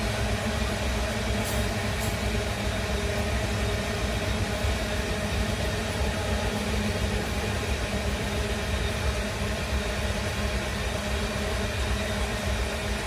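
Heavy iron-ore freight train passing: a steady rumble of wheels on rail with a low hum, unchanging throughout.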